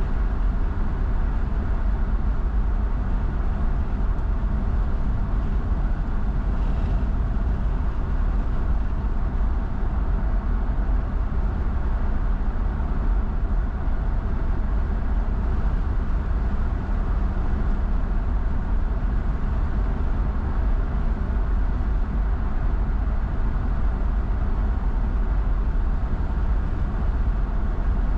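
A car driving at steady speed: a constant rumble of road and tyre noise with engine drone, unchanging throughout.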